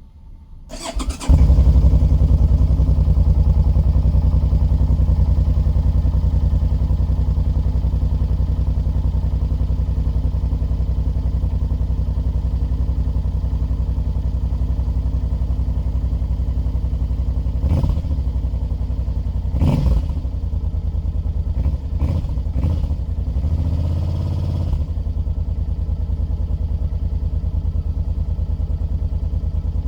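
A 2014 Suzuki Boulevard C50 Boss's 805 cc V-twin on its stock exhaust, started from cold: the starter turns it over briefly about a second in, it catches, and it settles into a steady idle. A few brief rises in the engine note come about two-thirds of the way through.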